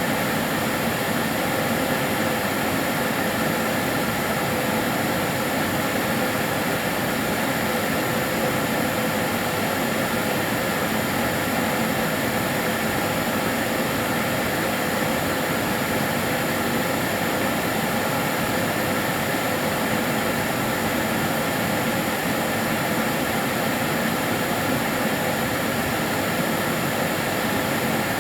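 Kärcher DS 6 Premium water-filter vacuum cleaner running steadily: an even whooshing motor and airflow noise with a faint constant whine, no change in pitch or level.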